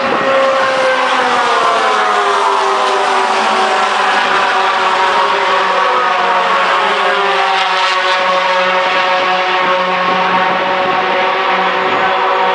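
Racing pickup truck engines running at speed on track. The engine note falls over the first two seconds or so, then holds fairly steady and rises slightly later on.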